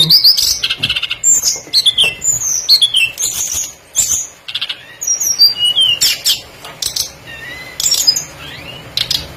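Tledekan (shortwing) song: a rapid run of high, thin whistles, mostly short falling slurs, mixed with sharp clicking and chattering notes.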